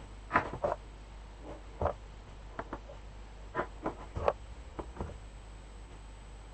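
Light clicks and taps of small sewing supplies being handled and set down in a sewing box, about ten at irregular intervals over the first five seconds.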